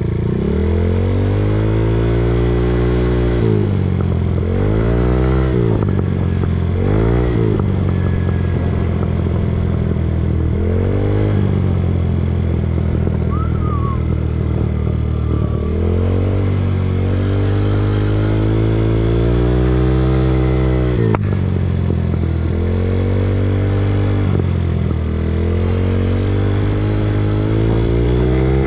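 Small moped engine running under the rider, its pitch climbing and dropping several times in the first dozen seconds as the throttle is opened and closed, then holding steadier as it rides on.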